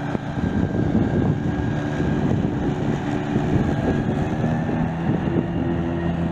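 Grasshopper 900D zero-turn mower's Kubota D1305 three-cylinder diesel running steadily under load while mowing tall, wet grass, with wind on the microphone.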